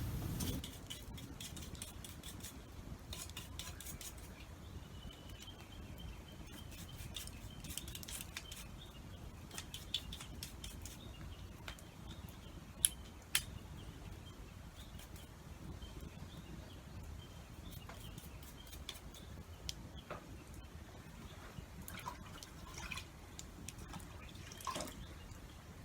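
Rain dripping, heard as scattered sharp ticks and drops over a steady low hiss, with two louder clicks about halfway through.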